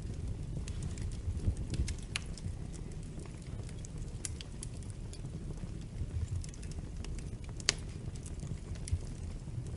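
Wood fire crackling: scattered sharp pops and snaps over a low steady rumble of burning logs, with one louder pop about three-quarters of the way through.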